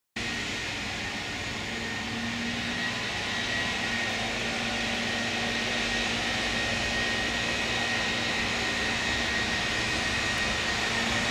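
Steady rumble and hiss of trains at a railway station platform, with a thin high steady whine over it, growing slowly louder.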